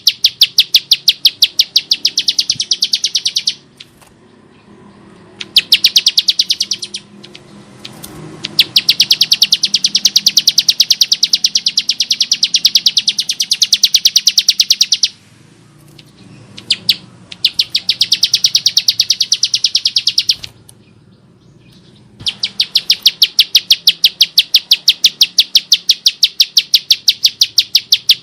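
Ciblek sawah, a small prinia, giving its harsh rapid call: long strings of sharp, high notes at several per second, in bouts broken by short pauses.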